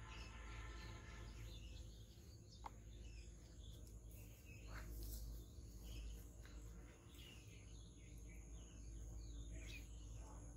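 Faint bird chirps scattered over a low steady rumble, with one sharp click about a quarter of the way in.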